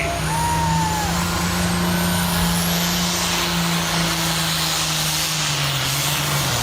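A road vehicle running: a steady low engine hum under a loud, even rushing noise, with the hum dropping slightly in pitch about five seconds in.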